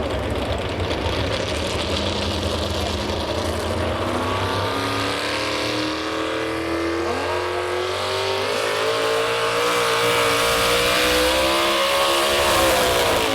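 Modified 4x4 pulling truck's engine running hard under load, its pitch climbing steadily as the revs build, then dropping off near the end.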